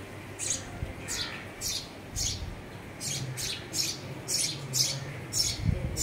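Small birds at a nest chirping repeatedly: short, high-pitched chirps, about two a second.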